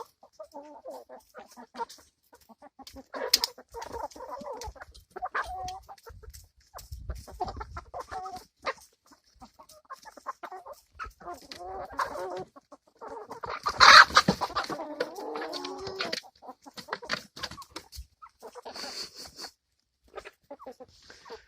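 Backyard hens clucking, a run of short, scattered calls, with one louder call about two-thirds of the way through.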